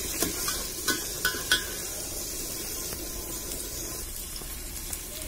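Onions and ginger-garlic paste frying in hot mustard oil in a metal pot, sizzling steadily, while a metal ladle stirs and knocks against the pot about four times in the first second and a half.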